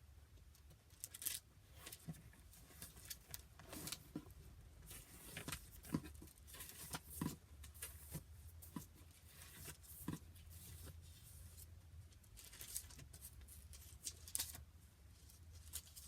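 Paper pages being turned and rustled in irregular short bursts, as a Bible is leafed through to find a passage, over a faint steady low hum.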